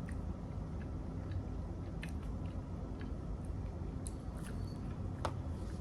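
A person chewing food, with scattered small wet mouth clicks at irregular moments.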